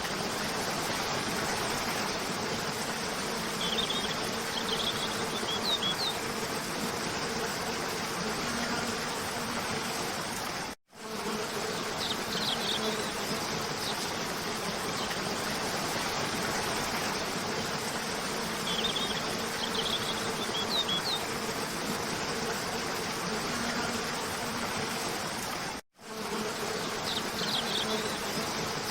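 Steady rushing of a cascading waterfall, with short clusters of high bird chirps every few seconds. The sound drops out for a split second twice, where the looped track restarts.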